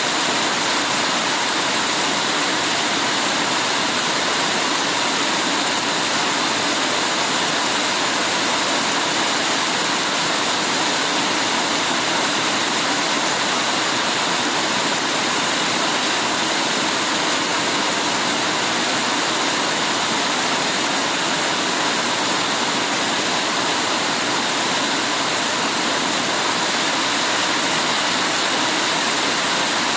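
Heavy rain falling steadily, a dense even hiss of water with no breaks or separate drops standing out.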